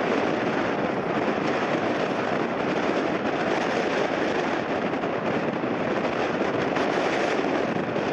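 Steady roar of strong gale-force wind buffeting the microphone, mixed with the engine noise of a jet airliner coming in to land.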